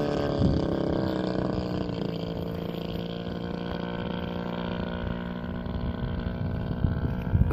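A model airplane's motor and propeller drone steadily at a fairly constant pitch, easing slightly lower in the first couple of seconds.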